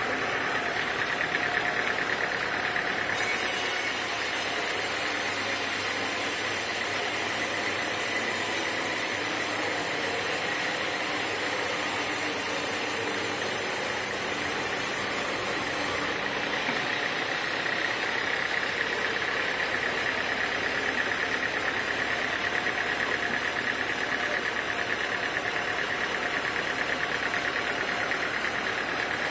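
Sawmill machinery running steadily, with a high hiss that starts abruptly about three seconds in and stops about sixteen seconds in.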